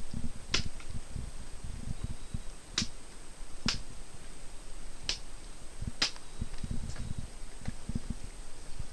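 Hungry cats eating, with about six sharp clicks scattered among frequent low, dull thumps.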